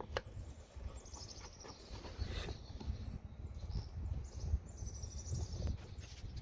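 A small bird's rapid trilled calls, twice, high-pitched, over a low rumbling background with a few sharp clicks.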